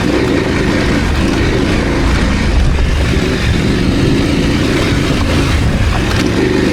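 KTM 890 Adventure parallel-twin motorcycle engine running as the bike is ridden off-road. The engine note eases off around the middle and picks up again near the end.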